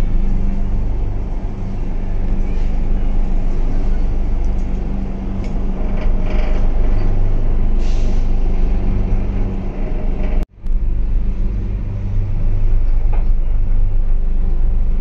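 Ispat Express passenger train running, heard from inside the coach: a steady, loud rumble of the carriage on the rails. It breaks off briefly about ten and a half seconds in.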